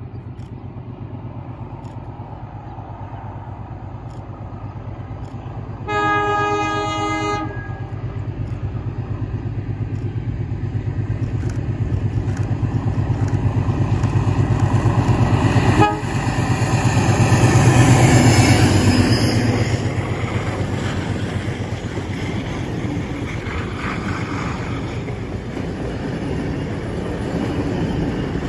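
A passenger train double-headed by diesel locomotive 4501 and steam locomotive 3526 approaching and passing. The diesel's steady engine drone builds to its loudest about two-thirds of the way through as the locomotive goes by, followed by the carriages' wheels clacking over the rail joints. One horn blast of about a second and a half sounds about six seconds in.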